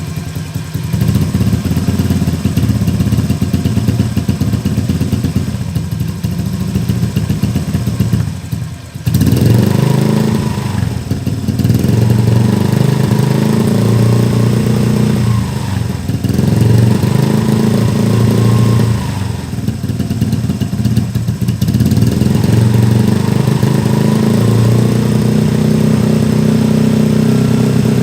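Motorcycle engine running through an R9 aftermarket exhaust, idling steadily at first, then revved up and let back down several times from about nine seconds in.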